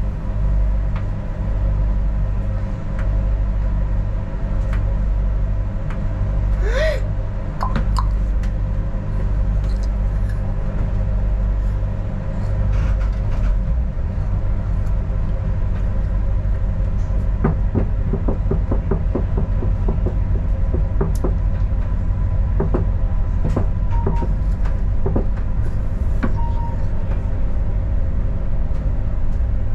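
Adelaide Metro diesel railcar running: a steady engine drone and rumble with several steady tones over it. A run of sharp clicks and knocks comes in the second half.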